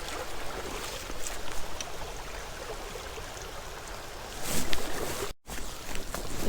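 Steady rush of a small creek's running water. It swells louder about four and a half seconds in, then cuts out suddenly for a moment before resuming.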